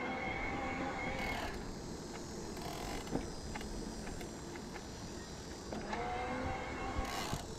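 Bosch mid-drive e-bike motor whining steadily under pedal assist. It stops about a second and a half in and comes back near the end, over a steady rush of wind and tyre noise.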